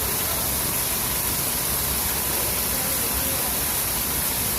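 Waterfall: a steady hiss of falling water that does not change.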